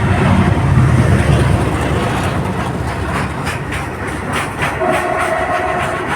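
Diesel-hauled freight train passing close by. The locomotive's deep engine rumble fades over the first two seconds, then the freight wagons' wheels clack over the rail joints in a steady rhythm.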